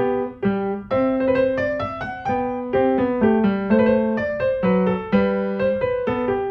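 Background piano music: a melody of struck notes over a steady left-hand accompaniment.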